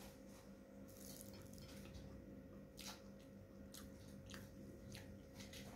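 Quiet eating by hand: chewing a mouthful of corn rice and stir-fried long beans, with scattered soft wet mouth clicks over a faint steady hum.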